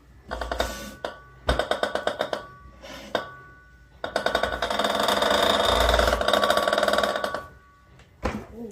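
Haier HUF65MDW upright freezer being handled: bursts of rapid rattling and clattering with a faint ringing in them, the longest lasting about three seconds from around four seconds in.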